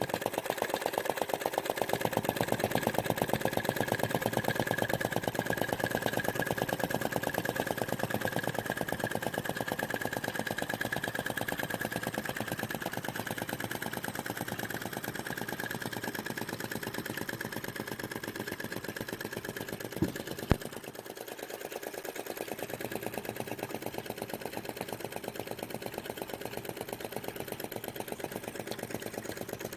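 Model flame gulper vacuum engine running steadily with a rapid, even clacking rhythm. Two sharp clicks come about two-thirds of the way through.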